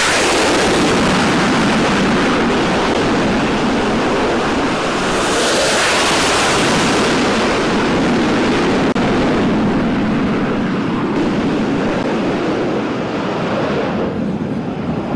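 F/A-18 Super Hornet jet engines running at full power for catapult launches on a carrier flight deck: a loud, steady rush. It swells and grows brighter about five seconds in, as a jet leaves the deck, then eases off and drops further near the end.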